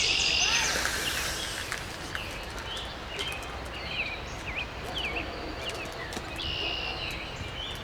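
Small birds chirping over and over in short, quick calls, with a rustling hiss near the start and a few light clicks.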